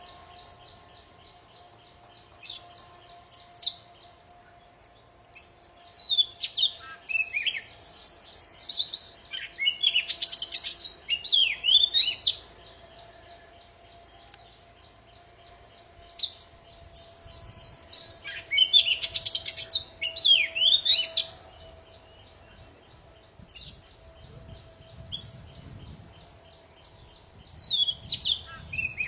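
Oriental magpie-robin of the black-bellied 'kacer poci' form singing in full song: loud bursts of varied rising and falling whistles and warbles, the longest phrases running several seconds, broken by short pauses.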